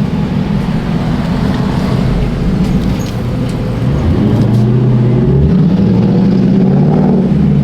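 Dodge Durango R/T's V8 engine running while driving, picking up revs and getting louder about four seconds in, then holding steady.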